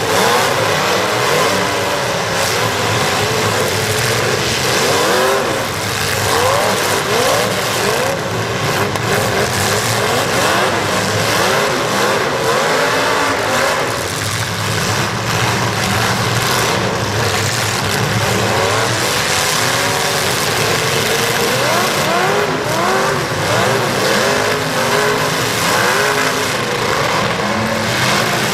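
Several demolition derby cars' engines revving hard over and under one another without a break, their pitches rising and falling as the cars accelerate and back off.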